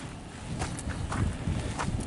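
A person walking: a few uneven footsteps over a low rumble.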